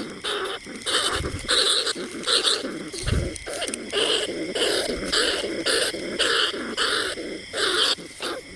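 Rat calls of the kind used to lure lesser bandicoot rats and field rats: a rapid, unbroken string of short squeaking and chattering calls, several a second. Two brief low thumps come about a second and three seconds in.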